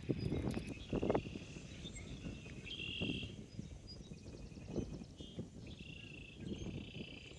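Footsteps crunching through dry leaves, a few steps at uneven spacing, with songbirds singing short repeated-note phrases.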